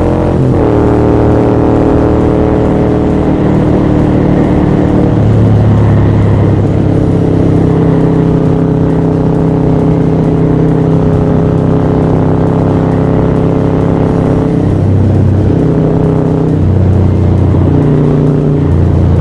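Harley-Davidson Sportster 1200's air-cooled V-twin, built up with a Screamin' Eagle Stage 4 kit, running steadily at road speed under way, with wind rush. The engine note changes pitch a few times near the end.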